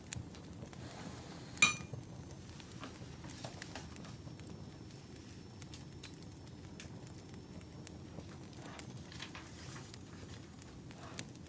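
Wood fire crackling, scattered small pops over a steady low rumble, with one sharp ringing clink a little under two seconds in.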